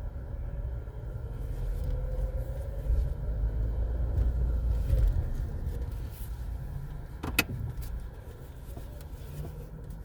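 Low, steady rumble of car wash tunnel machinery and a car moving through it, with one sharp click about seven seconds in.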